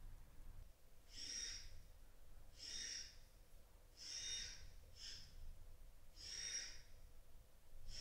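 A bird giving short repeated calls, about every second and a half, each call high and brief, over a quiet room.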